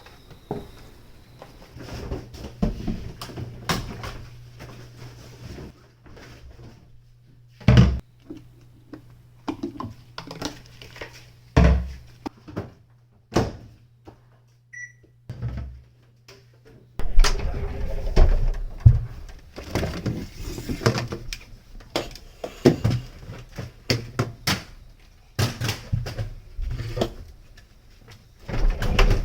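Household cleaning noises: repeated knocks, thumps and bumps of things being handled and moved. For the first half they sit over a low steady hum that stops partway through; after that the bumping and rustling is busier.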